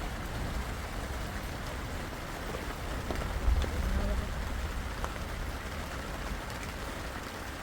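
Steady rain falling, an even hiss with a deep low rumble underneath. A short louder thump comes about three and a half seconds in.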